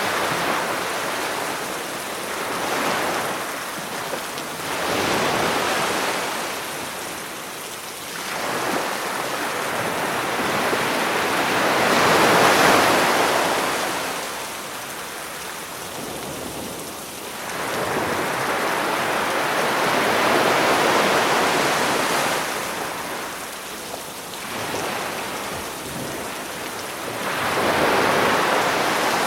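Sea waves breaking and washing up the shore, surging and ebbing every few seconds over a steady hiss of rain.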